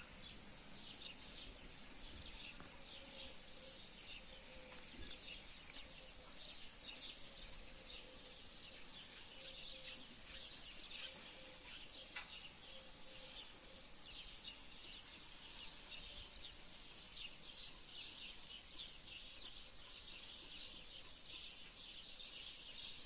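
Small birds chirping on and off throughout, many short high calls over a faint background hush.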